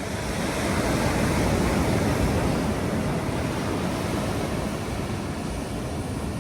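Ocean surf washing onto the beach: a steady rush of noise that swells about a second in and slowly eases off.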